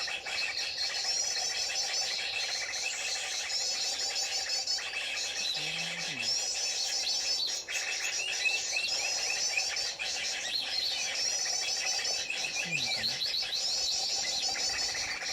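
Small songbird singing short high twittering phrases, repeated in a regular pattern about every two to two and a half seconds, over a steady background hum. It is the call used to draw konin birds down to lime-stick traps.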